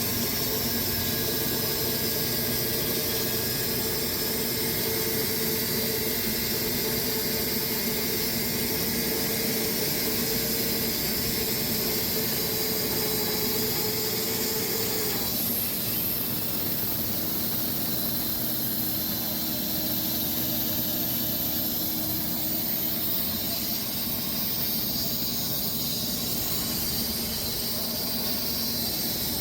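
Sawmill running and cutting through a Bastogne walnut log: a steady mechanical drone with hiss and a squeal. About halfway through, one steady tone drops out and the sound changes.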